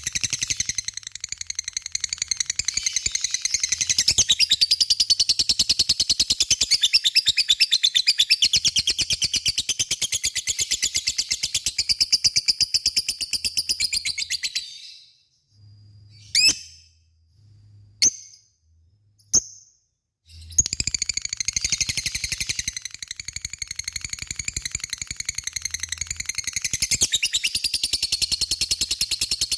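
Lovebird giving its long, rapid chattering trill (the 'ngekek' of a bird in full song). It breaks off about halfway for a few seconds, with three short sharp calls in the pause, then resumes.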